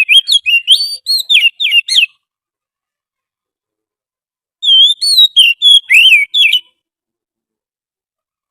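Oriental magpie-robin song from a lure recording: two phrases of quick, sliding whistled notes, each about two seconds long, with a pause of about two and a half seconds between them.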